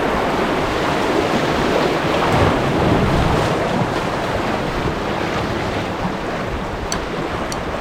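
Steady rushing of moving river water, with a few light clicks near the end.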